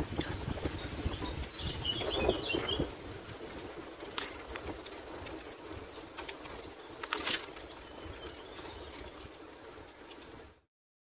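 Outdoor ambience: wind rumbling on the microphone, a short twitter of bird chirps about two seconds in, and a few scattered clicks. The sound cuts out just before the end.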